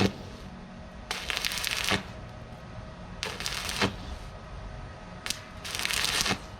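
Repeated scraping strokes, four of them about one every one and a half to two seconds, each ending in a short knock.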